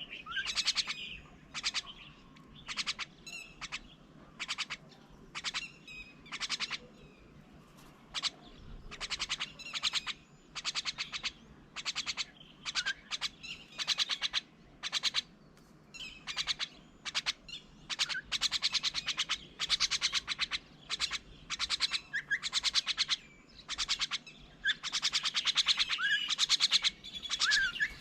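Birds calling: a steady stream of short, harsh, rasping calls repeated one after another, with a few brief rising whistled notes mixed in. The calling gets busier and louder in the second half.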